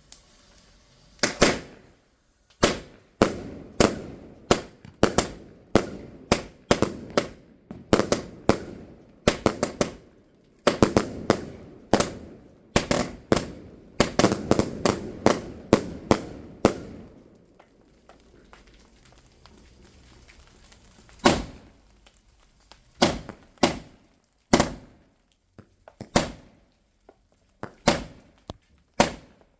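Fireworks going off: a rapid, dense run of sharp bangs and cracks for about fifteen seconds, then a pause and a few scattered single bangs near the end.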